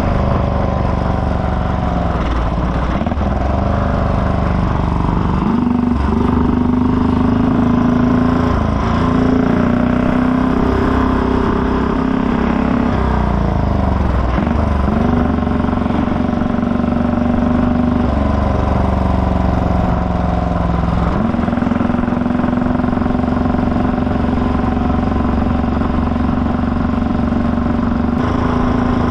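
Velocette KTT 348 cc overhead-cam single-cylinder engine running under way on the road. The engine note is steady but drops and climbs back several times, as the throttle and gears change.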